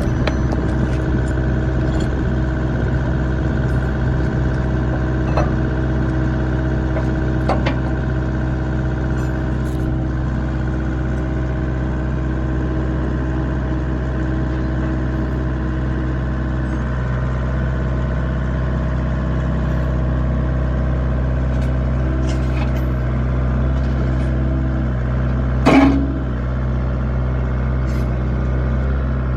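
Wacker Neuson 6003 excavator's diesel engine running steadily, with a few light clicks and one loud metallic clank near the end.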